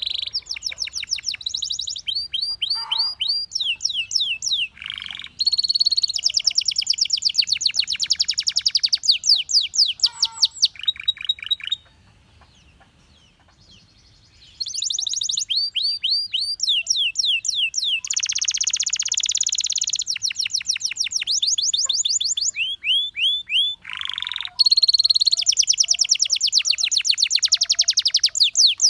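Canary singing in long, fast trills of repeated high notes, changing from one trill to another phrase after phrase, with a pause of about three seconds midway.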